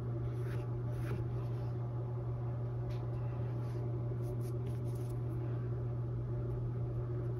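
A steady low hum, with a few faint scratchy strokes of a paintbrush on stretched canvas in the first few seconds.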